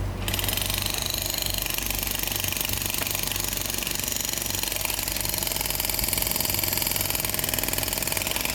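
A machine running steadily with a fast, even pulse. A brighter hiss joins in just after the start.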